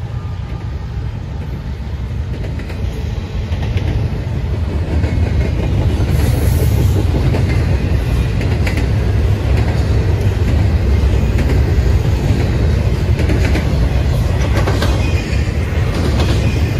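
A train passing close by: a heavy rumble with wheels clicking over the rail joints, growing louder about four seconds in.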